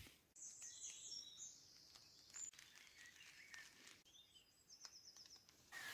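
Near silence outdoors, with faint, high-pitched bird chirps here and there and a short rapid run of chirps about four seconds in.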